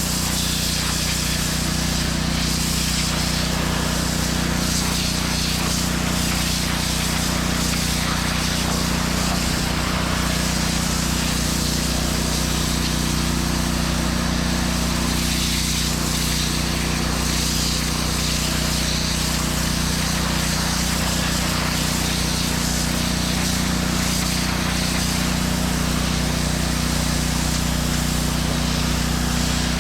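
Pressure washer running steadily: its engine holds a constant drone under the even hiss of the high-pressure water spray on concrete.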